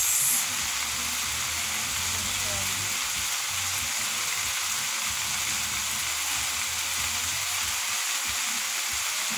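Chicken and vegetable stir fry with soy sauce sizzling steadily in a hot frying pan.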